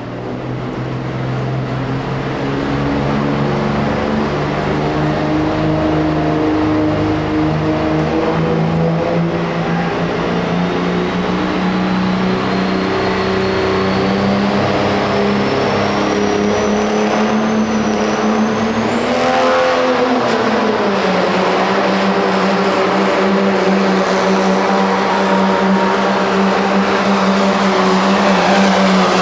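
Pro street diesel pickup truck's engine running hard under load during a truck pull, building in loudness over the first few seconds. A thin high whine climbs slowly through the middle, then jumps sharply higher about two-thirds of the way in, as the engine note drops slightly and holds.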